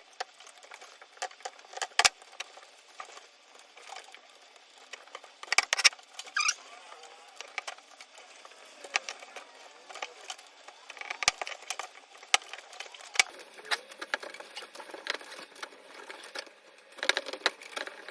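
Scattered light clicks, taps and rustling from hands handling exhaust header pipes and their fiberglass heat wrap, with a few sharper knocks along the way.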